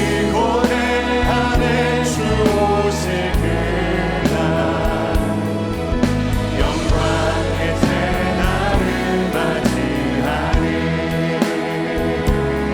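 Church praise team singing a worship song together, with band accompaniment: steady bass notes under the voices and regular drum hits.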